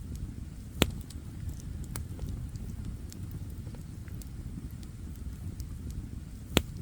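Wood campfire burning with a low steady rumble and scattered small crackles, and two sharp loud pops, one about a second in and one near the end.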